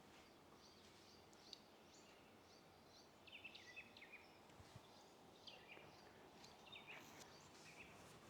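Faint chirping and twittering of small songbirds, with a busier flurry of calls about three seconds in and again near seven seconds, over a steady background hiss.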